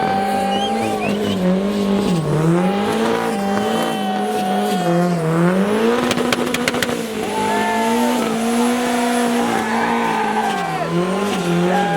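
A car engine held at high revs while drifting, its pitch dropping and climbing again and again as the throttle is worked, with tyres squealing. There is a quick run of sharp crackles about six seconds in.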